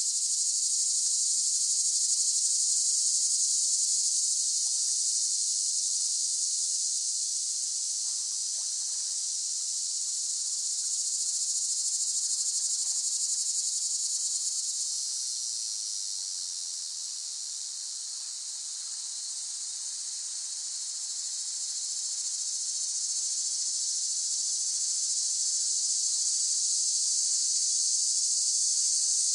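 Cicadas buzzing in a continuous high-pitched drone that swells and eases, dropping back a little around the middle before building up again.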